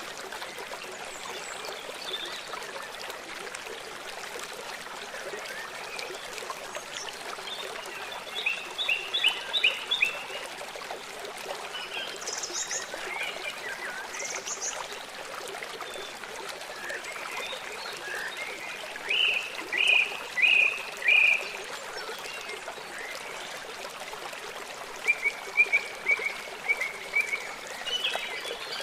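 A river running steadily, with birds singing over it in short runs of quick repeated chirps: one run about nine seconds in, a louder run of four or five chirps about twenty seconds in, and another run near the end.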